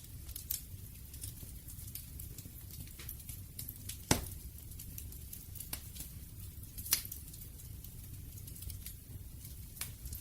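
Wood fire crackling: scattered sharp pops and snaps over a low steady rumble, with a louder pop about four seconds in and another about seven seconds in.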